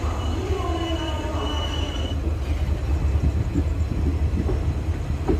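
Passenger train coaches rolling slowly out of a station, heard from a coach doorway: a steady low rumble of the running gear, with a thin high whine in the first two seconds.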